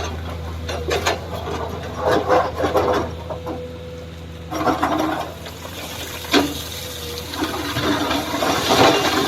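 Heavy machine engine running steadily under irregular scraping, rushing bursts, typical of an excavator bucket digging and dumping wet red mud.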